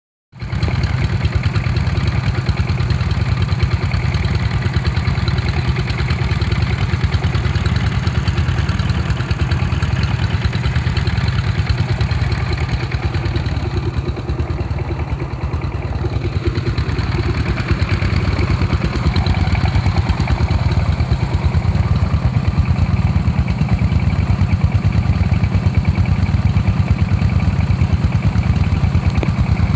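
Stationary Kubota and Dongfeng diesel engines running steadily, driving irrigation water pumps, with a fast, even chugging beat.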